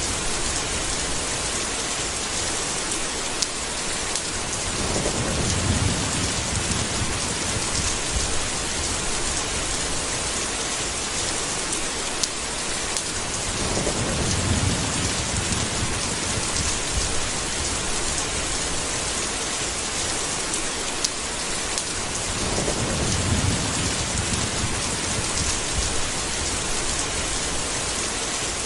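Steady heavy rain, with three low rolls of thunder about nine seconds apart.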